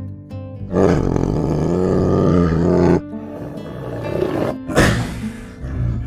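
A big cat roaring: one drawn-out roar of about two seconds that cuts off abruptly, then a shorter harsh call near the end, over background music.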